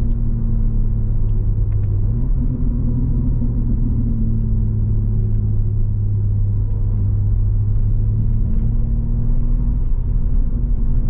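BMW G80 M3's twin-turbo straight-six engine, fitted with a single midpipe, running steadily under light load while driving, a low drone that steps up slightly in pitch about two seconds in.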